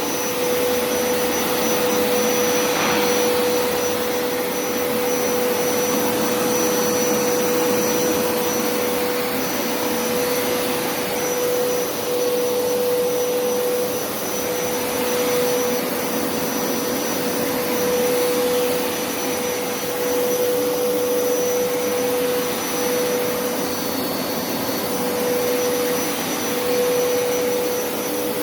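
Hoover upright carpet extractor running a dry pass, its suction motor on with no water being sprayed: a steady motor whine over a rush of suction noise, the level swelling and easing slightly every couple of seconds.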